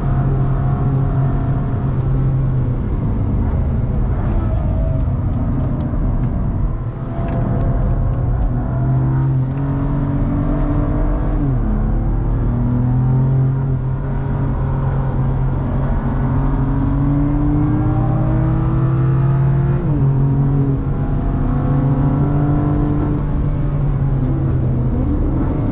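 BMW's engine heard from inside the cabin under hard acceleration on track, its revs climbing steadily and dropping sharply at gear changes, twice, about 12 and 20 seconds in, over a steady rumble of road and wind noise.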